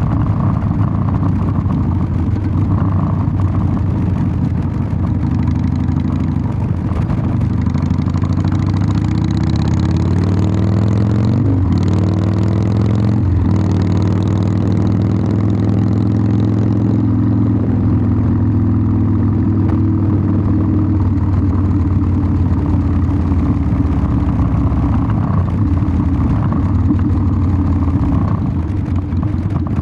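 Harley-Davidson Sportster 1200's air-cooled V-twin engine and exhaust running under way on the road. The engine pitch rises through the middle and breaks sharply twice, then settles into a steady run.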